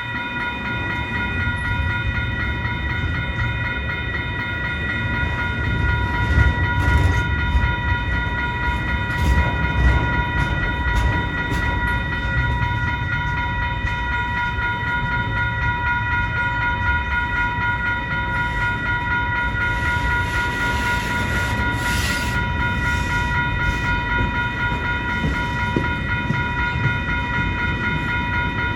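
CN mixed freight train rolling past: a steady low rumble of the cars with scattered clicks and knocks from the wheels on the rail joints, under a steady high-pitched ringing tone.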